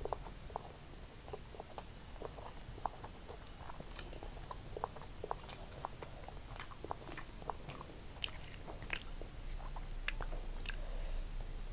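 Close-miked chewing of fried rice eaten by hand, with many short wet mouth clicks and smacks. The clicks grow sharper in the second half, and the loudest comes about ten seconds in.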